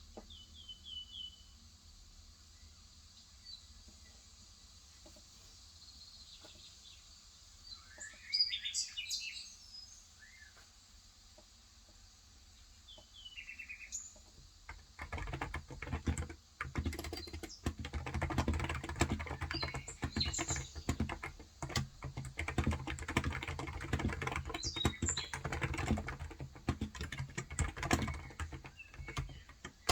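Small birds chirping in short calls for about the first half, then steady fast typing on a Cox Endeavour electro-capacitive 35 g tenkeyless keyboard starts about halfway through and continues, with the birds still chirping over it.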